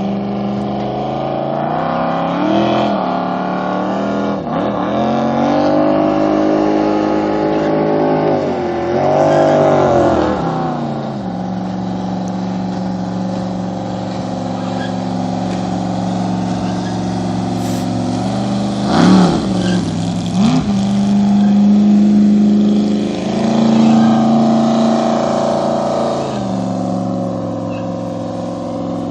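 Custom jet boat's engine, a 464 bored .060 over, running hard and being revved up and down several times, with two quick sharp revs about two-thirds of the way through and steadier running between.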